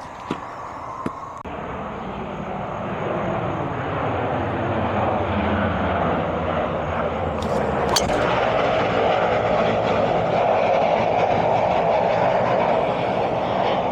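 Low-flying airplane passing over, its engine noise growing steadily louder and then holding, with the engine's pitch sliding down. A single sharp click about eight seconds in.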